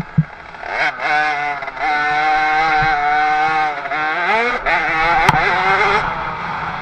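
50cc two-stroke motocross bike engine revving, its high pitch climbing, holding and wavering as the throttle is worked, with a dip and a climb again about four seconds in. A sharp click about five seconds in.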